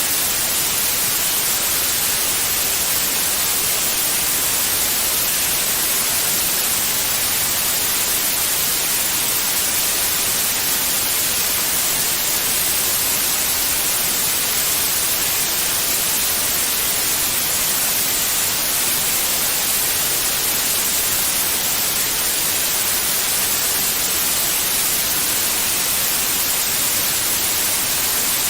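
Steady, unchanging white noise: an even hiss with no tones or breaks, brightest in the high treble.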